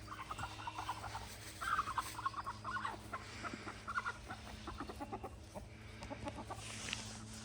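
Chickens clucking in quick runs of short notes, busiest in the first three seconds and sparser after.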